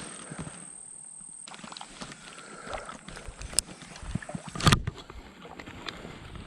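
Water sloshing with scattered light clicks and knocks, and one sharper knock a little under five seconds in.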